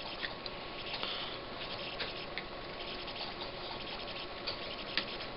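Flux sizzling with a few faint crackles as a soldering iron melts the solder joints of an old push-button on a circuit board.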